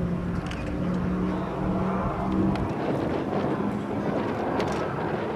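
Twin turbocharged Allison V12 engines of a P-38 Lightning running. A steady droning hum about halfway in becomes a rougher, noisier rush of engine sound.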